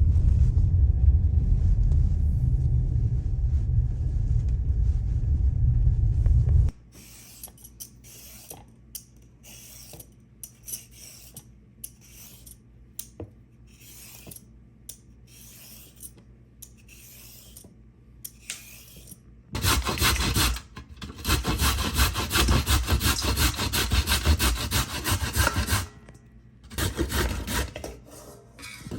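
Carrots being grated, with loud continuous rasping strokes from about twenty seconds in, a short break, then more. Before that comes a steady low rumble for the first seven seconds, then a quiet stretch with scattered light taps.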